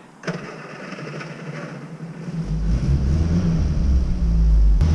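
A car engine starts running about two and a half seconds in and keeps going with a loud, low, steady rumble; a single click comes shortly before, near the start.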